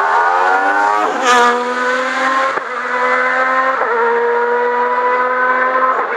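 Hill-climb race car engine revving up in the first second, with a short hiss about a second in, then running at a high, nearly steady pitch broken by two brief dips, as at gear changes.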